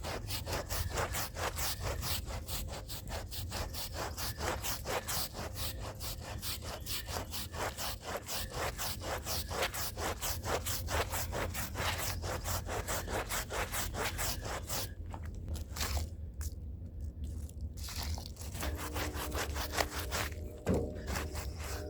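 A stiff hand brush scrubbing a dirty rug, its bristles rasping across the carpet fibres in fast back-and-forth strokes of about four a second. The strokes pause briefly about two-thirds of the way through, and a single knock comes near the end.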